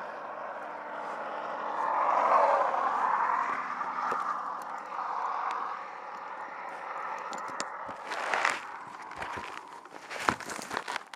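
Highway traffic passing: a vehicle swells past about two to three seconds in and fades. Near the end come several sharp knocks and scrapes.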